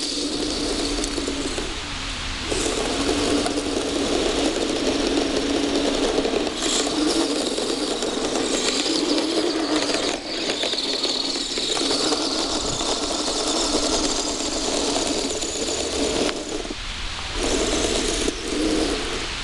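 Kyosho Blizzard radio-controlled snowcat running, its electric drive and gearbox whirring while its tracks clatter, with brief dips in level about ten seconds in and again near the end.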